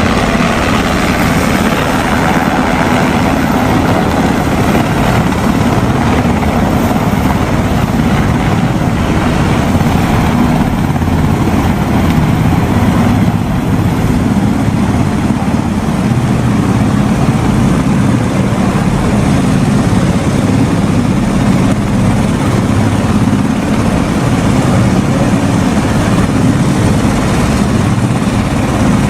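Helicopter running steadily: a loud, continuous rotor and engine drone with a low rumble and a hiss above it.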